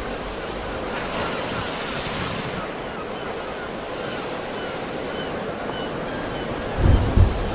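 Sea surf washing in a steady hiss, swelling about a second in, with wind buffeting the microphone in low thumps near the end.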